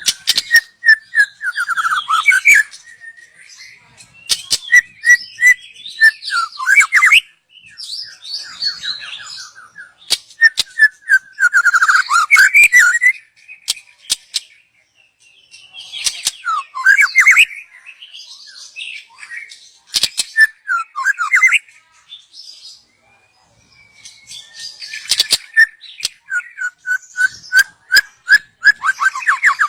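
White-rumped shama (murai batu), a young wild bird, singing in its 'cocom' style: bursts of fast repeated whistled notes mixed with sharp clicks, with short pauses between the bursts.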